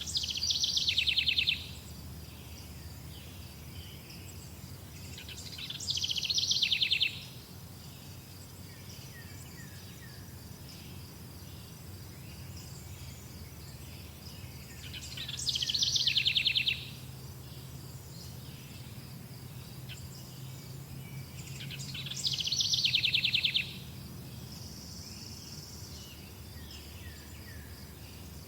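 Songbird singing a rapid high trill, repeated four times at intervals of roughly six to eight seconds, each phrase growing louder and then stopping abruptly. Under it runs a steady high insect drone.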